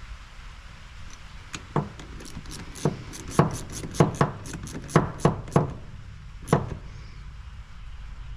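Hand tools working on a pressure washer pump: an irregular run of about a dozen sharp knocks and clicks of metal on metal, bunched in the middle few seconds.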